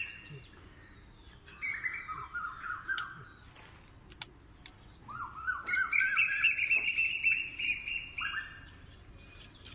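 A bird singing in three bouts of quick, repeated rising chirps; the bout about halfway through is the loudest.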